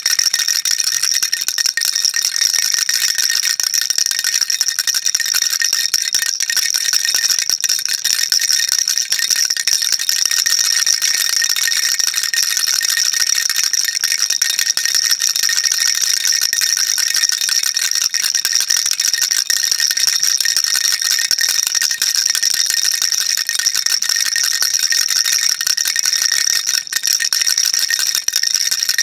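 Baby rattle shaken continuously: a dense, steady, high-pitched rattle of small beads inside a toy, with no pauses.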